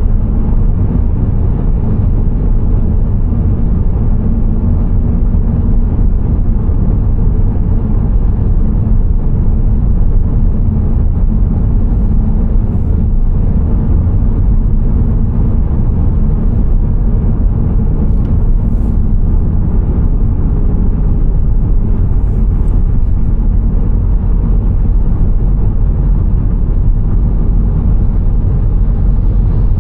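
Steady low rumble of a car driving along, road and engine noise with no change in pace, and a few faint ticks now and then.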